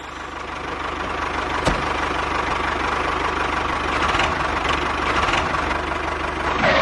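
A small motorised machine running steadily with a fast rattle and a steady whine, with one sharp click under two seconds in; it cuts off suddenly at the end.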